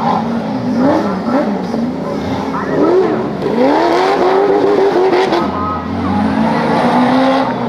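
Off-road vehicle engines revving, their pitch rising and falling repeatedly over a steady lower engine drone.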